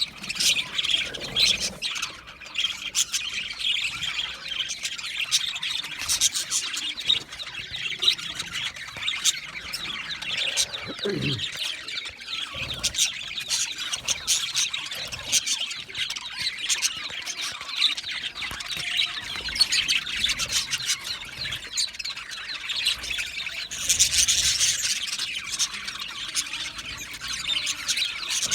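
A flock of budgerigars chattering, with many overlapping chirps and warbles; a louder stretch of squawking comes about 24 seconds in.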